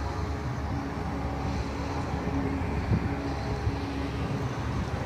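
Steady low outdoor rumble, with a faint dull thump about three seconds in.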